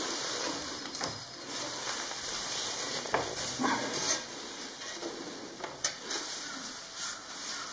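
Rustling and scraping handling noise with scattered sharp clicks and light knocks.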